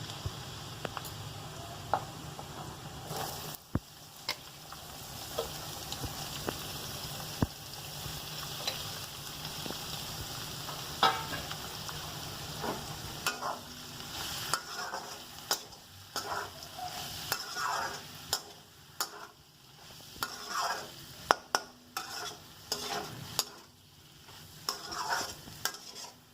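Food sizzling in a hot pan while a spatula stirs it. The sizzle is steady for about the first twelve seconds, then gives way to frequent scrapes and clicks of the spatula against the pan.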